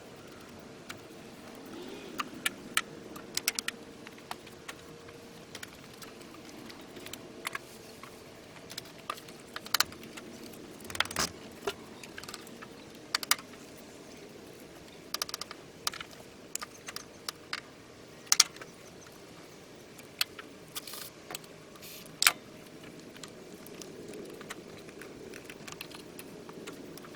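Scattered sharp metallic clicks and clinks of hand tools and parts being handled during engine removal work, some in quick little clusters, over a faint steady hum.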